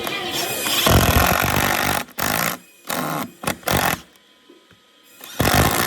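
Power tool working wood in short bursts, a longer run about a second in, several brief ones after it and another near the end, stopping sharply between them.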